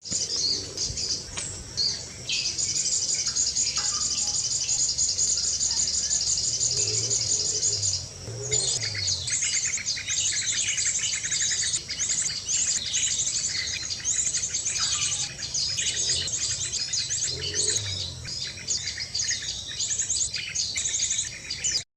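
Small birds chirping and trilling rapidly and almost without pause, high-pitched, with a brief lull about eight seconds in; the sound cuts off abruptly at the end.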